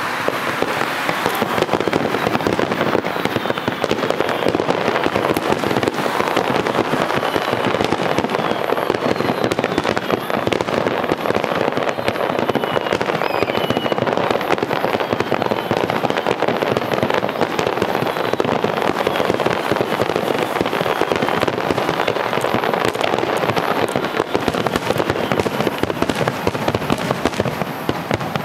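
Fireworks display finale: a dense, unbroken barrage of shell bursts and crackling, with no let-up.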